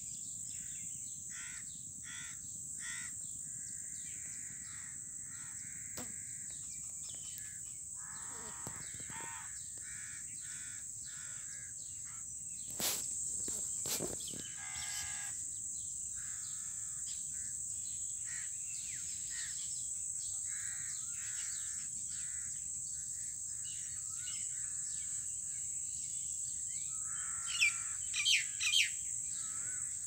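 Birds calling in the open: many short chirps and some harsher, caw-like calls over a steady high-pitched drone. Two sharp knocks come about halfway through.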